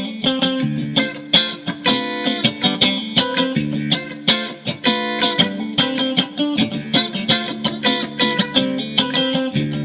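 Mexican-made Fender Stratocaster electric guitar in drop D tuning, played as a sound sample after a setup: quickly picked notes and strums several times a second over ringing low strings.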